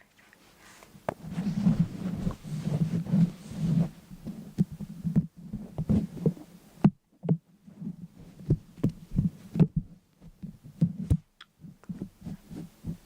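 A run of soft, irregular thumps and taps, several a second at times, with denser rustling between about one and four seconds in.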